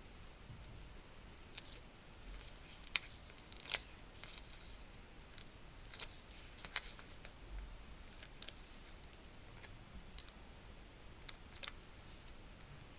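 Cardstock pieces and adhesive foam dimensionals (pop dots) being handled and pressed in place: scattered small clicks and light rustling of paper, about a dozen clicks at uneven intervals.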